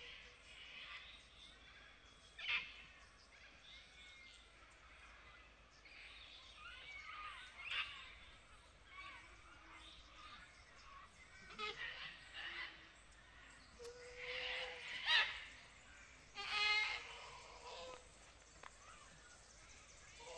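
Birds calling: scattered short chirps and pitched calls at a low level, with the two loudest calls near the end.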